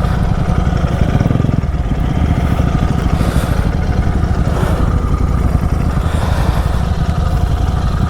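Triumph Speed 400 single-cylinder motorcycle engine and exhaust running at a steady, fairly high cruising speed on the highway, with a rapid, even exhaust note.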